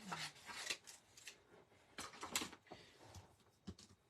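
Paper and cardstock being handled, with irregular rustling and scraping strokes.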